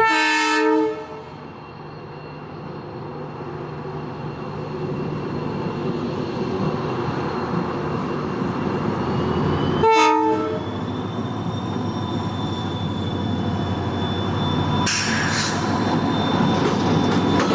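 A WDP4D diesel locomotive's horn sounds two short blasts about ten seconds apart, over the rumble of the approaching train, which grows steadily louder. A brief high hiss or screech comes near the end.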